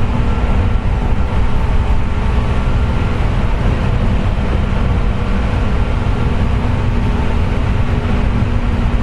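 Running noise aboard a JR West 201 series electric train car at speed: a steady rumble of wheels on rail with a constant whine, the 'jet sound' of bearings damaged by electrical pitting.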